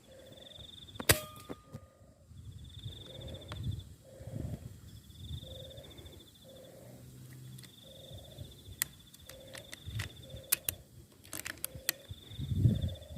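Gusts of wind buffeting the microphone, with one sharp metallic crack and a brief ring about a second in, and fainter clicks later. Through it, short low cooing notes of spotted doves repeat about once a second, and a high buzzing trill keeps recurring.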